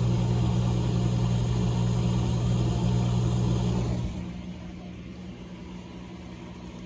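Amana dishwasher's pump motor running with a loud, steady low hum. It cuts off about four seconds in, leaving a much fainter hum.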